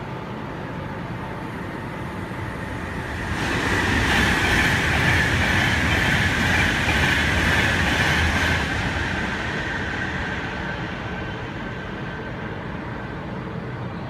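Virgin Trains class 390 Pendolino electric train passing through the station at speed. The rush of wheels and air builds about two seconds in, is loudest for about five seconds, then fades slowly as it goes away.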